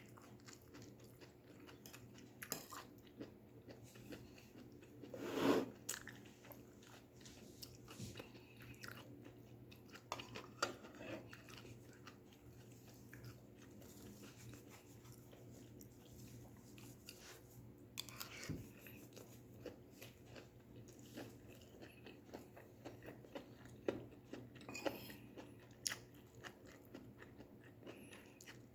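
Close-up chewing and crunching of stir-fried vegetables: irregular crisp bites and wet mouth sounds, with one louder burst about five seconds in.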